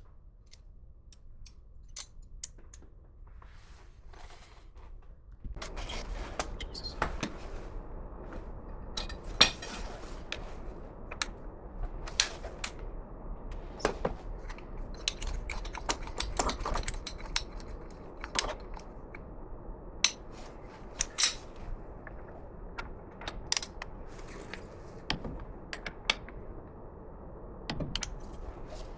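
Metal tools and parts clinking and clicking against each other while being handled, in irregular knocks. A steady rushing noise starts about five seconds in and runs under them.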